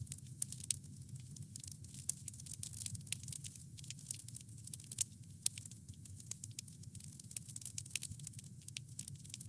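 Wood fire crackling: a dense, irregular stream of sharp pops and snaps from burning wood over a low steady rumble of the flames.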